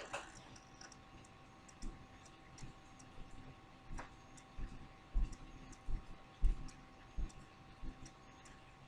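Faint handling noise: scattered small clicks, then a run of soft low knocks about one or two a second through the second half, over a faint steady whine.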